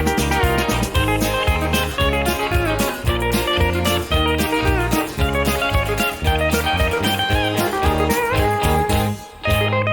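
Country band music: electric guitars and pedal steel guitar, with gliding, bending notes over bass and drums keeping a steady beat. The band breaks off briefly near the end, then comes straight back in.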